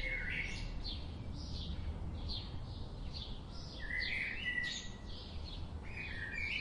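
Birds chirping: short high chirps repeat about twice a second, with longer warbling phrases at the start, about four seconds in and near the end, over a low rumble of background noise.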